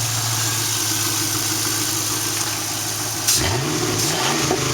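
1999 Camaro Z28's LS1 5.7-litre V8 idling warm and steady, its exhaust open at the back of the Y-pipe. About three seconds in the throttle is blipped: the engine note jumps up and falls back, and a smaller blip follows near the end. It runs clean, with no ticks or odd noises.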